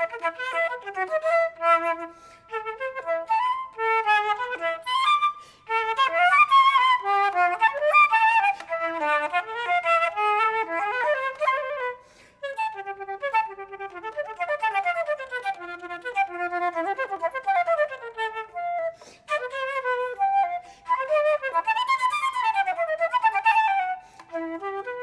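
Solo flute playing a classical piece in quick runs of notes that rise and fall, with short pauses about two, five and twelve seconds in.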